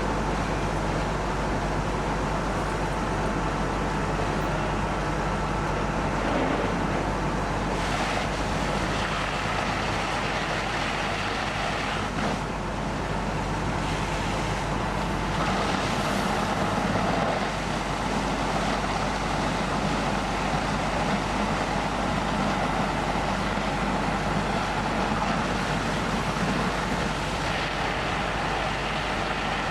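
Fire truck engines running steadily at a fire scene, a continuous heavy engine drone with a few brief louder rushes.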